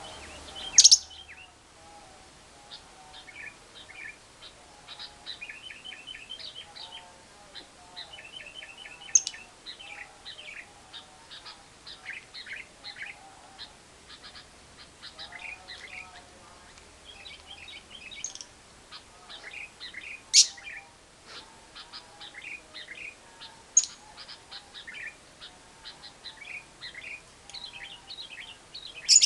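Lovebird chattering: fast runs of short, high chirps, the long 'ngekek' song used to lure other lovebirds into singing, over a fainter, lower twittering. A few loud, shrill single calls cut through now and then.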